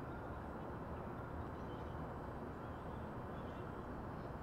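Distant train heard as a faint, steady low rumble under outdoor background noise, with no distinct events.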